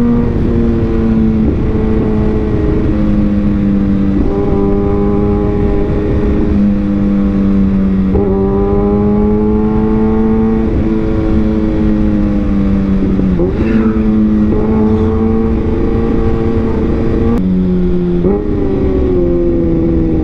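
Kawasaki Ninja ZX-6R inline-four engine and exhaust under way. The engine note climbs slowly and then steps sharply in pitch, down and up, about eight times as the rider changes gear and throttle, over a steady low rumble.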